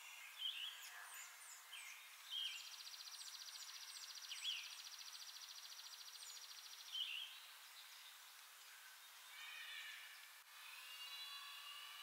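Wild birds calling faintly: short sharp calls and high chips scattered throughout. A long, even, buzzing trill runs for about four seconds in the middle, and warbled song phrases come near the end.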